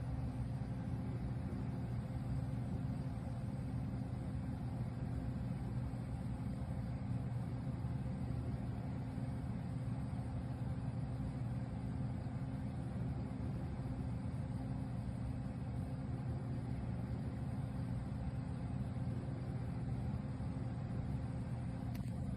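Steady low hum of a BougeRV CRPRO 30-quart 12-volt compressor fridge running, an even drone that does not change.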